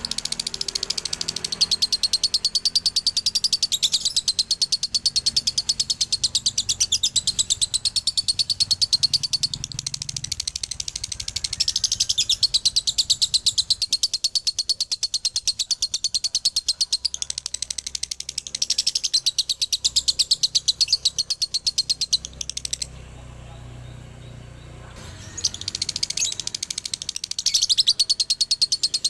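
Male lovebird singing its long, rapid chattering song (dobelan/ngekek), a fast string of short high chirps. The chirping breaks off for about two seconds near the end, then starts again.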